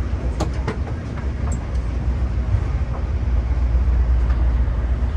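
Steady low hum inside a stationary Innovia APM 300R airport people-mover car standing at a station with its doors open. A couple of short knocks come about half a second in.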